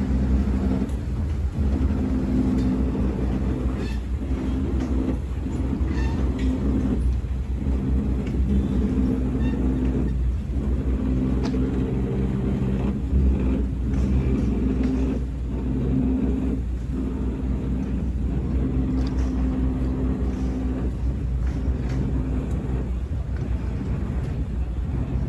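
A boat's engine running steadily: a low rumble with a constant droning hum.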